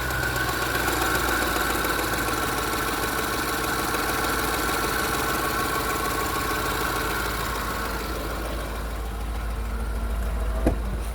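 Land Rover LR4 engine idling with a rattle taken for timing-chain rattle. A single sharp click comes near the end.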